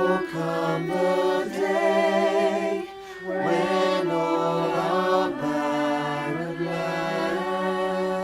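Voices singing a slow worship song, holding long notes with vibrato in phrases of a few seconds.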